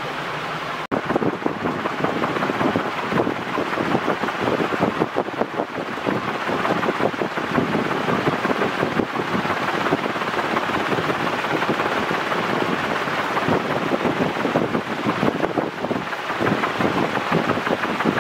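Roshan CP56-1 ceiling fan with three metal blades running on high speed, about 300 RPM: a loud rush of moving air with gusty wind buffeting the microphone. After a brief break about a second in, the buffeting turns rougher.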